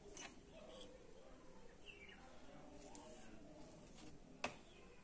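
Near silence with a faint bird chirp, a short falling call about two seconds in, and a single sharp click near the end.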